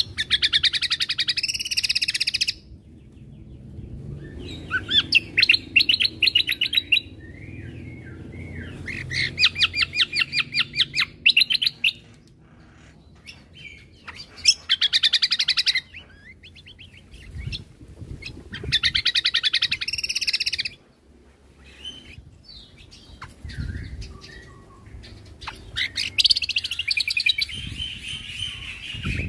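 Cucak kombo (kecial kombo) songbird singing: six bursts of rapid, high repeated notes, each about two to three seconds long, with short pauses between them.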